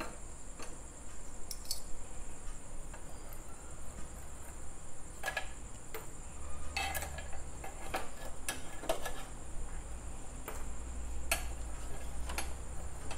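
Metal spoons clinking and scraping while hot charcoal pieces are picked up and dropped into a deep spoon: about ten scattered sharp clicks. A steady high-pitched hiss runs underneath.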